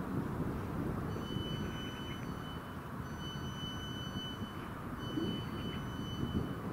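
Electric multiple unit approaching at a distance, a low rumble of running noise. Over it a high steady beep sounds three times, each about a second and a half long with short gaps between.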